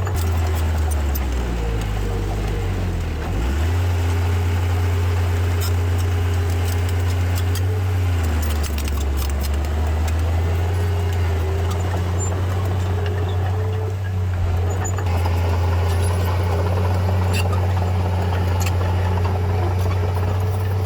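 Heavy diesel engine of earthmoving machinery running under changing load, its pitch dipping and rising several times. A few sharp clanks sound over it.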